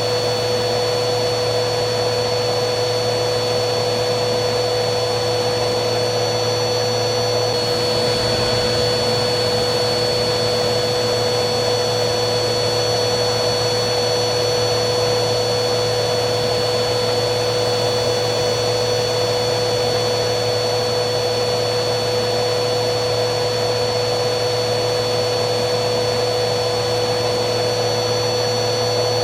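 Vacuum cleaner running steadily: a constant rush of air with a steady motor whine on top. The high whine shifts slightly about seven and a half seconds in.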